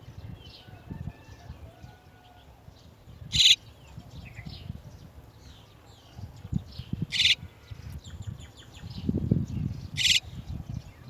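Chestnut-tailed starlings calling at the nest: three loud, short, raspy calls a few seconds apart, with faint chirps between them. Low knocks and rustling run underneath and grow stronger near the end.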